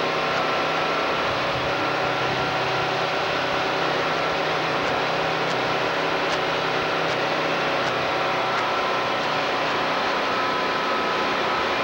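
Heavy truck's diesel engine running at a steady speed, a constant drone with several fixed tones and road noise.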